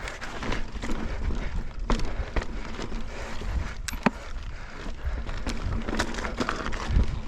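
Mountain bike rolling over slickrock: tyre noise with scattered sharp clicks and knocks from the bike and its chain over a low rumble.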